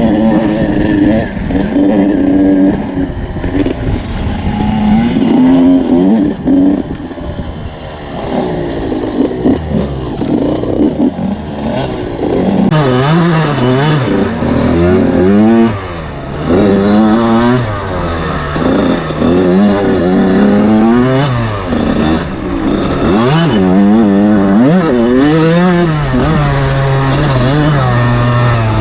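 Small 80–85 cc two-stroke motocross bike engine revving up and down again and again, its pitch climbing and dropping with throttle and gear changes, harder and more frequent through the second half.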